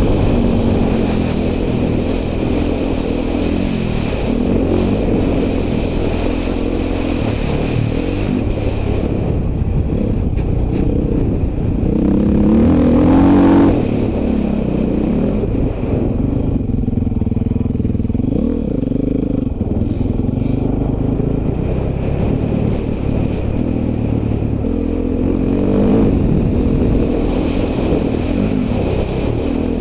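Dirt bike engine revving up and down as it is ridden off-road, the pitch rising and falling with the throttle, with a hard burst of throttle climbing to its loudest about twelve to thirteen seconds in.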